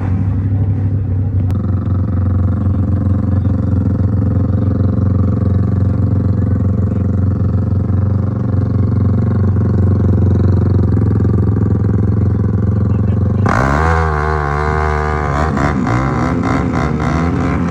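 Motorcycle engines at a drag strip. First a steady, even engine note, then about three-quarters of the way through the pitch suddenly starts swinging up and down as an engine is revved hard.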